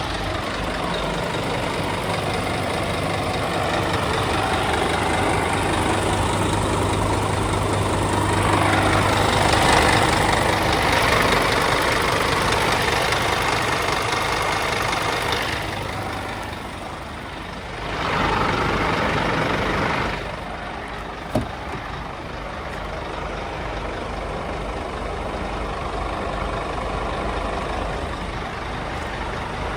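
Scania P280 truck's diesel engine running, growing louder about a third of the way in and easing off again, with a short louder surge a little past the middle and one sharp click just after.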